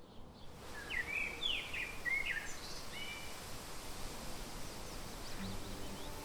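Songbirds chirping in short phrases that sweep up and down in pitch, busiest in the first few seconds and again near the end, over a steady outdoor hiss.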